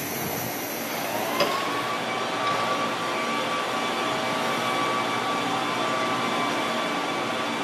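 JR 185-series electric train starting off from the platform: a hiss of air that cuts off with a click about a second and a half in, then a steady whine over the train's running noise.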